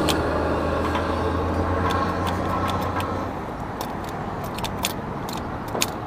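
A vehicle engine running steadily at idle, dropping away about three seconds in, with scattered light clicks and taps.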